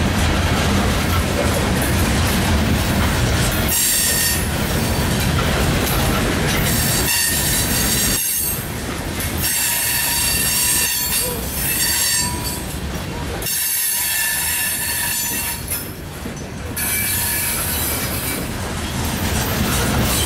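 Coal train's steel hopper cars rolling past close by: a steady rumble of wheels on rail, with high-pitched wheel squeal that comes and goes.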